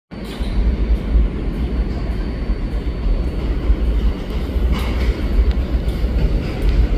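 R160A subway train pulling into the station: a steady low rumble of the cars running on the track, with a few sharp clicks from the wheels, the clearest about five seconds in.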